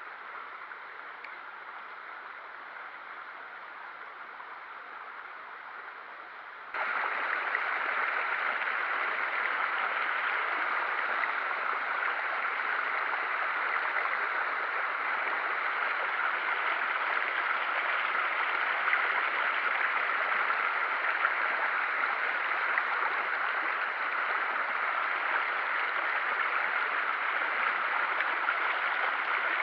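Rushing stream water, a steady noisy rush that jumps abruptly louder about seven seconds in and then holds steady.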